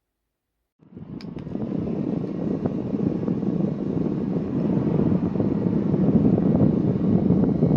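Small desk fan running loudly, a dense airy whirr. It starts from silence with a click or two, builds over a couple of seconds, then holds steady.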